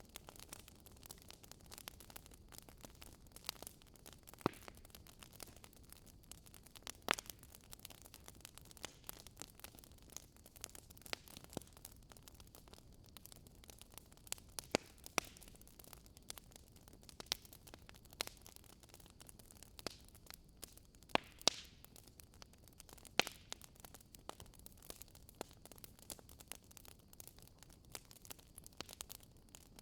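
Wood fire burning in a fireplace, crackling with irregular sharp pops and snaps over a faint steady hiss; a handful of the pops are much louder than the rest.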